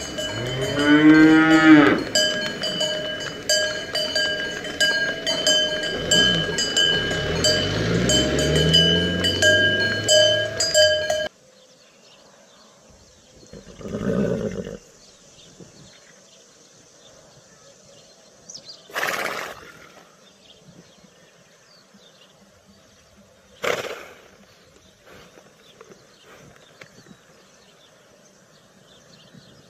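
Cows mooing over a steady clanking of cowbells, with two long calls. The sound cuts off abruptly about eleven seconds in, leaving a quiet stretch with a few brief sounds.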